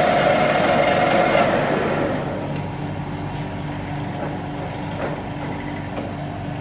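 Workshop machinery running steadily with a mechanical hum. Its louder, higher-pitched part dies away about two seconds in, leaving a quieter steady hum.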